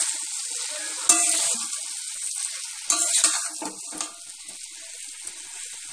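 Fried potato and cauliflower pieces being stirred into spice paste frying in mustard oil in a pan, with a steady sizzle. A spatula scrapes and stirs about a second in and again around three to four seconds.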